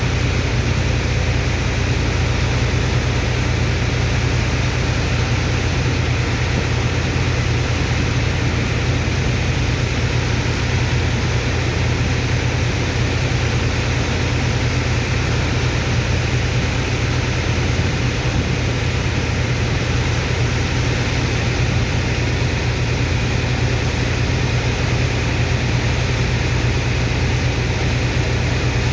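Engine of a sand-dredging water pump running steadily at constant speed: a deep, even drone with a hiss over it.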